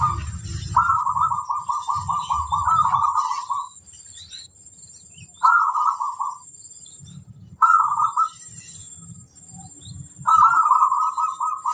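Zebra dove (perkutut) cooing in fast trilled, staccato phrases. One long phrase runs about three seconds, then shorter bursts come every couple of seconds.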